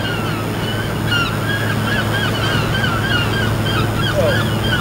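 Birds calling in a rapid run of short yelping calls, about three a second, over a steady low engine hum.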